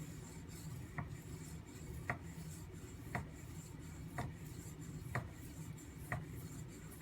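Knife blade stroked back and forth across a whetstone to convex and thin its edge bevel: a steady rasping rub, with a short click about once a second as each stroke turns.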